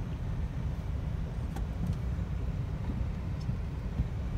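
Car engine idling, a steady low rumble heard from inside the cabin as the car creeps forward, with a couple of faint clicks.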